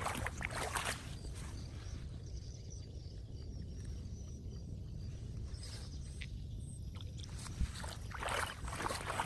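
Floodwater running into a street storm drain, a steady low rushing, with splashing in the first second and again near the end.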